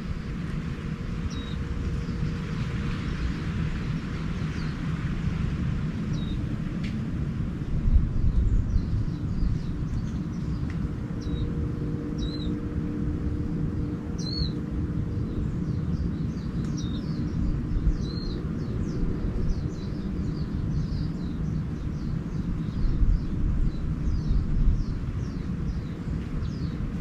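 Small birds calling in short, high chirps and slurred notes, more and more often through the second half. Underneath is a steady low rumble that swells a few times, with a faint steady hum.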